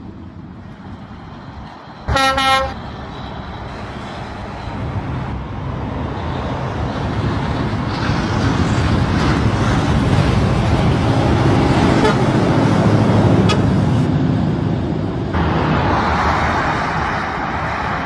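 A vehicle horn gives one short toot about two seconds in, then a heavy vehicle's engine and road noise build up and run loud.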